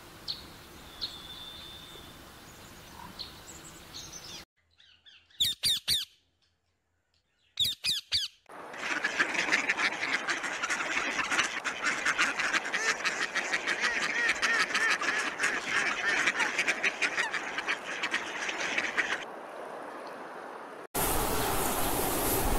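Ducks calling: a few separate pitched calls, then a dense chorus of many overlapping quacks and chatter that carries on for about ten seconds.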